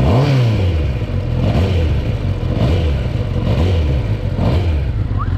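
Kawasaki ZX-10R's 998 cc inline-four on its stock exhaust, revved in neutral in quick throttle blips about once a second, each a rise and fall in pitch.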